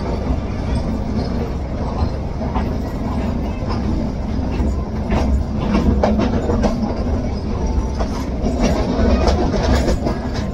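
Metre gauge passenger coaches rolling past close alongside: a steady wheel rumble with the clickety-clack of wheels over rail joints.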